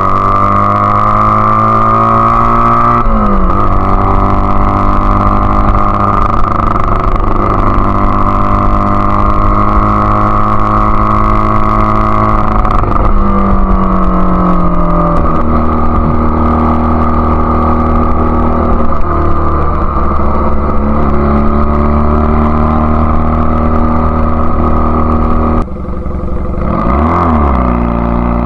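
1999 Honda Rebel CA125's single-cylinder engine with an aftermarket BSM/Highway Hawk exhaust, running under way. The note shifts in pitch several times as throttle and gears change, with a sudden dip near the end and then a rise and fall in revs. It splutters between quarter and three-quarter throttle, a sign that the Keihin PD carb's needle clip still needs dialling in.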